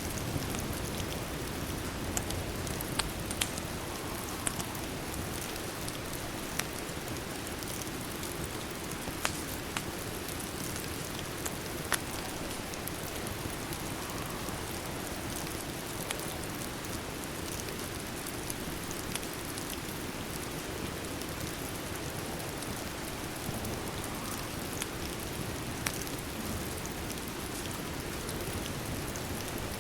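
Steady rain hiss mixed with a crackling wood fire, with a sharp pop every couple of seconds at irregular intervals.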